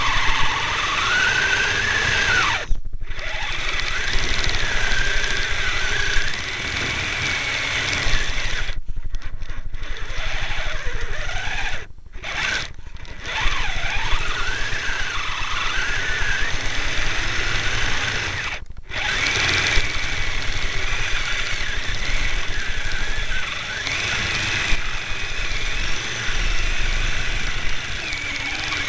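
Brushed electric motor and drivetrain of a Kyosho Blizzard SR RC snowcat whining, the pitch rising and falling as the throttle changes, with a few brief breaks.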